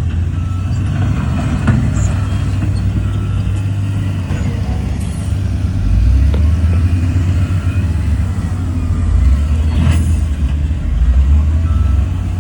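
Heavy-machinery diesel engine working, a loud low rumble that rises and falls a little, with a few sharp knocks around the middle and near the end.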